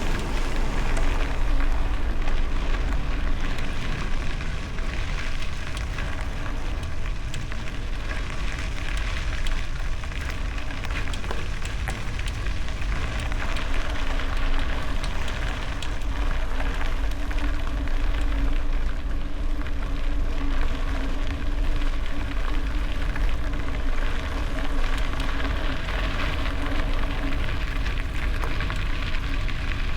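Bicycle tyres rolling over gravel, making a steady crackling rush, with heavy wind rumble on the microphone.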